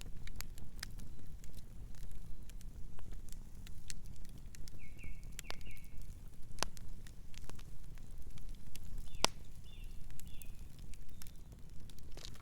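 Campfire crackling: a steady stream of sharp pops and snaps over a low rumble, with two louder pops about halfway through. A night bird chirps softly a few times in the background.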